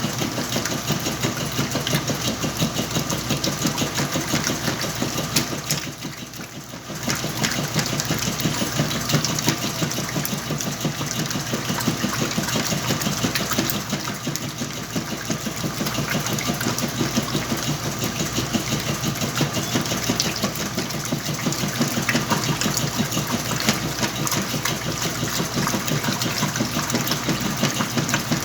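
Whirlpool washing machine washing a load of blankets: a steady motor hum with a fast rhythmic churning. It drops away briefly about six seconds in and then picks up again.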